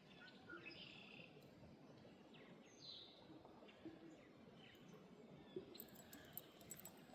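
Near silence with faint bird chirps now and then, and a few light clicks near the end.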